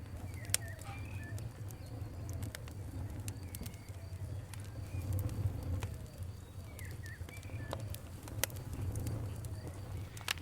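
Campfire crackling, with scattered sharp pops over a low steady rumble, while birds call now and then in the background.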